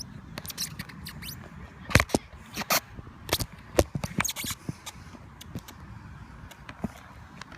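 Irregular clicks, taps and knocks from a handheld phone jostled while riding a bicycle one-handed, over a low rumble; the knocks come thickest for a couple of seconds in the middle.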